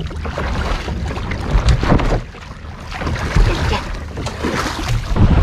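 Wind buffeting the microphone over water splashing and lapping around a small boat, with several sharper splashes.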